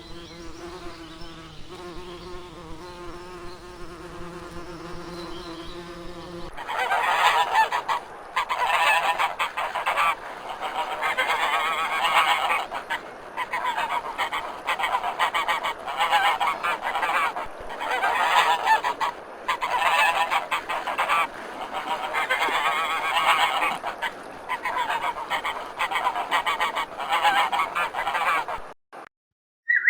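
Animal calls: a few seconds of a steady, low-pitched call, then a loud, dense chorus of calls in waves every second or two. It cuts off shortly before the end.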